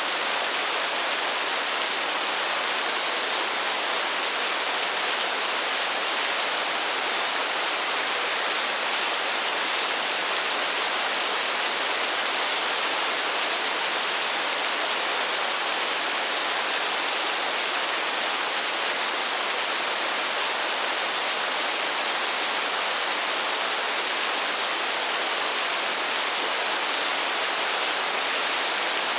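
Steady rain falling in a forest: an even, unbroken hiss, mostly high in pitch, with no single drops standing out and no change in strength.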